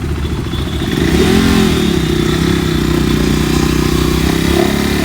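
KTM RC 390's single-cylinder engine revved hard for a burnout. About a second in, the revs swing up and then hold high and steady.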